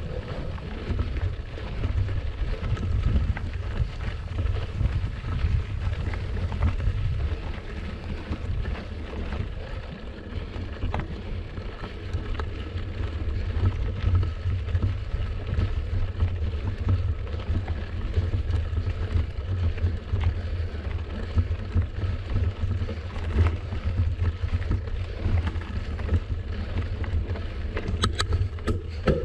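Wind buffeting the microphone of a camera on a moving bicycle: a steady low rumble, with a few sharp ticks near the end.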